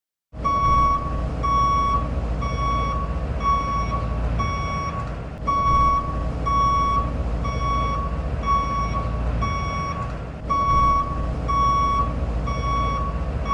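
Truck's reversing alarm beeping evenly about twice a second, a single steady tone, over a steady low rumble.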